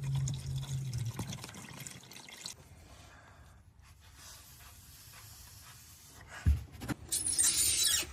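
Used engine oil trickling and dripping from the drain-plug hole of a Jeep Pentastar 3.6 V6 into a drain pan. About six and a half seconds in there is a knock, followed near the end by a short loud hiss.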